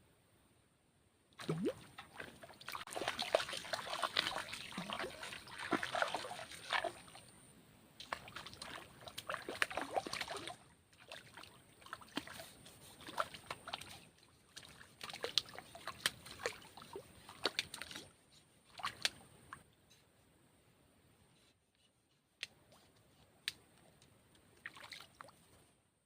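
A hooked climbing perch (betok) thrashing and splashing at the water's surface in irregular bursts, hardest in the first few seconds and then in weaker spells as it tires.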